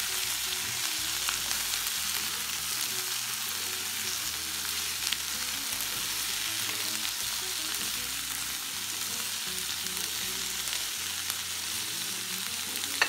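Sliced bell peppers, tomato, carrots and onion sizzling as they sauté in a skillet, steady and hissing, stirred with a spatula that gives a few light clicks against the pan.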